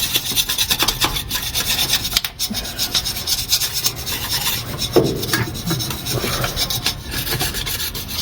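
Hand scrapers rasping old head gasket material off the cast-iron deck of a Ford flathead V8 8BA block, in rapid back-and-forth strokes of metal blade on metal.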